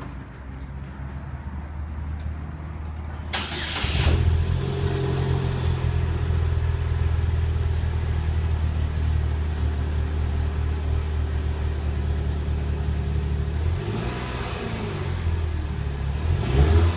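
2008 Pontiac Solstice's 2.4-litre four-cylinder engine through its stock exhaust: it starts about three seconds in and settles into a steady idle, then is revved briefly twice near the end.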